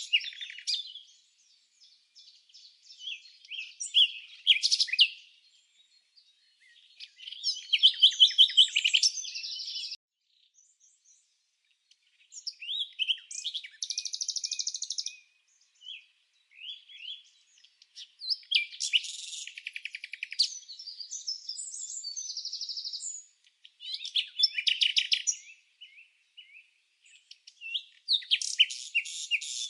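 Songbird singing: phrases of rapid chirps, trills and buzzy notes, each a second or three long, broken by short silences. The song is high-pitched, with no background noise beneath it.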